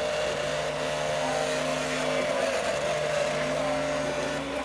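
Off-road vehicle engine running at steady low revs, its pitch stepping up and down slightly a couple of times.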